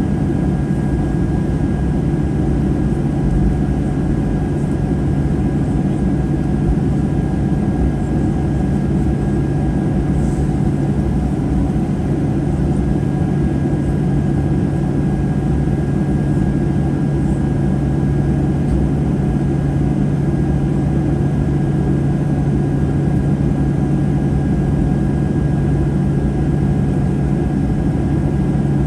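Steady cabin drone inside a Boeing 737-800 on the ground after landing, with a strong low hum and a faint high whine held throughout.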